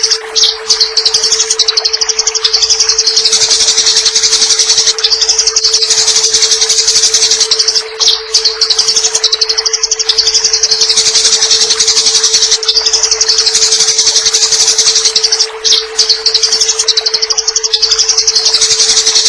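Eurasian tree sparrow giving its fighting call: a dense, very fast, high chattering that runs almost without pause, breaking off briefly about half a second in, about eight seconds in and about sixteen seconds in. A steady low hum runs underneath.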